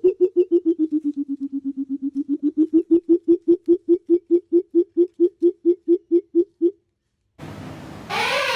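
A bird giving a long, rapid series of low hooting notes, about six a second, that stops short about two-thirds of the way through. A different, harsher call starts near the end.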